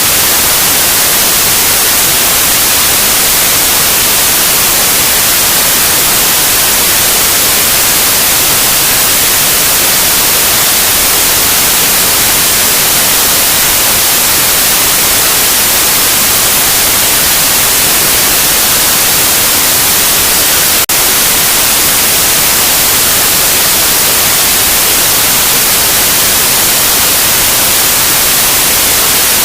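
Loud, steady white noise: an even hiss. One faint click about two-thirds of the way through.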